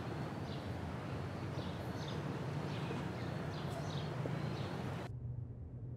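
Small birds chirping: repeated short, high chirps every half second or so over a steady low background hum. About five seconds in, the chirping and outdoor noise cut off abruptly, leaving only a quieter low hum.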